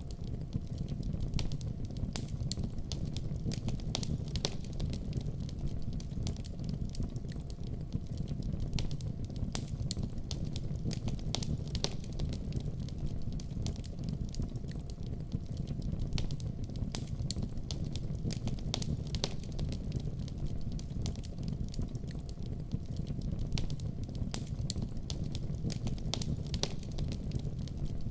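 Wood fire burning in a fireplace: a steady low rumble of the flames with frequent small sharp crackles and pops of burning wood.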